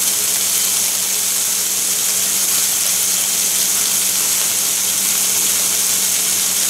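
Cubed pork belly and bacon sizzling steadily in a frying pan, an even high hiss, with a faint low hum underneath.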